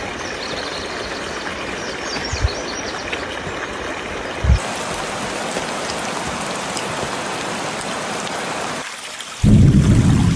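Steady rush of running water or rain, with faint high chirps a couple of seconds in and two soft low thumps. Near the end the sound cuts and a much louder low rumble takes over.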